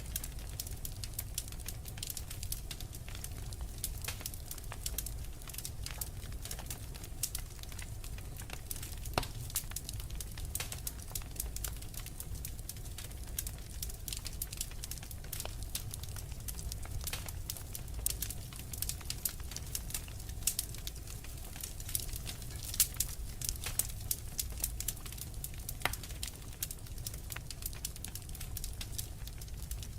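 Wood fire in a fireplace crackling steadily, with dense small pops and a few sharper snaps over a low, even rumble.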